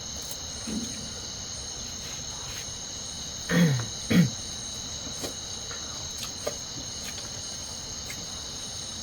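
Steady chorus of crickets, a continuous high-pitched trill. About three and a half seconds in, a person's voice is heard twice, two short sounds each falling in pitch.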